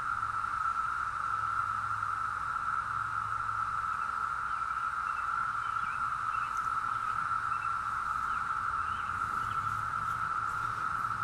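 Dense chorus of periodical cicadas: a steady, unbroken high droning whir that does not rise or fall.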